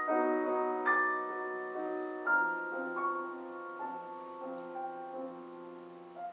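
Piano playing slow chords alone, each struck and left to ring, growing softer until the music dies away.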